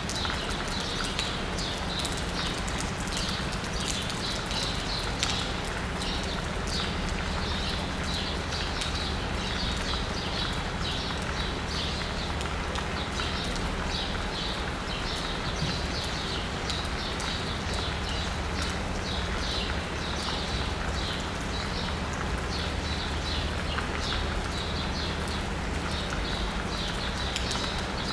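Steady rain pattering and dripping, with birds chirping again and again throughout, over a low steady hum of city traffic.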